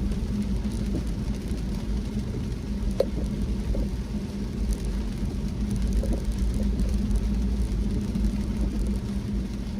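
Car driving: steady low road and engine rumble with a steady hum, and a single sharp tick about three seconds in.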